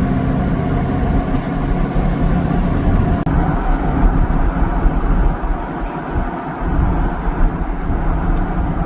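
Motor vehicle driving: steady engine and road rumble, its tone shifting slightly about three seconds in.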